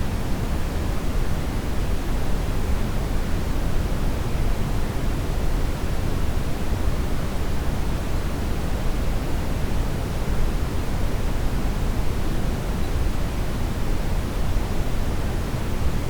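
Steady brown noise: a constant deep rushing hiss, heaviest in the bass, that does not change.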